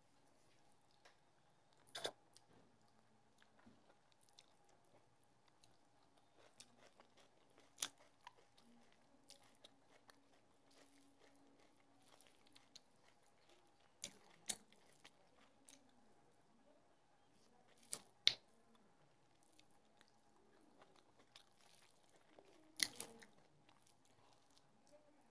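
Close-miked mouth sounds of someone eating rice and fish curry by hand: quiet chewing broken by about seven sharp clicks and smacks spaced a few seconds apart.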